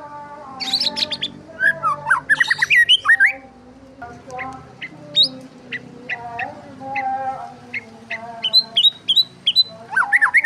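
Several birds chirping: quick runs of chirps about a second in and again near the end, with single sharp chirps in between, over soft sustained tones.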